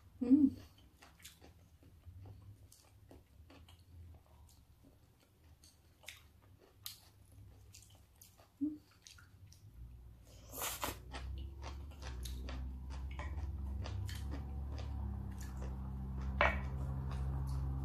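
Close-up mouth sounds of someone eating raw salmon sashimi: soft wet chewing with many small smacks and clicks. A steady low hum comes in about halfway through.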